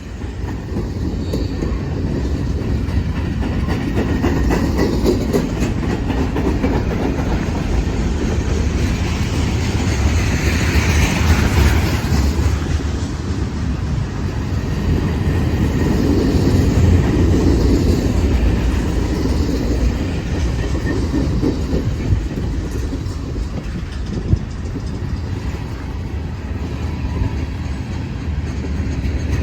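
CSX manifest freight train rolling past close by: a steady low rumble of the cars with wheels clacking over the rail joints, loud throughout after building up in the first few seconds.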